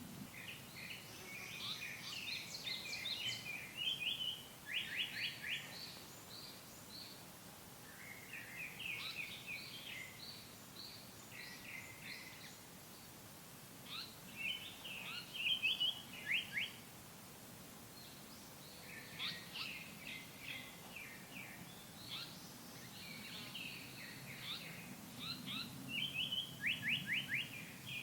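Japanese paradise flycatcher singing: about five phrases a few seconds apart, each a chatter of quick notes. Several end in a fast run of four or five repeated notes, the bird's "hoi hoi" ending. A faint low rumble lies under the song at times.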